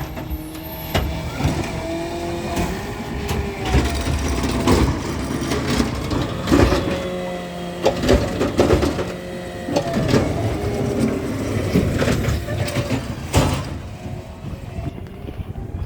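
A garbage truck working at close range: its engine runs with a pitch that rises and falls, broken by repeated clanks and bangs.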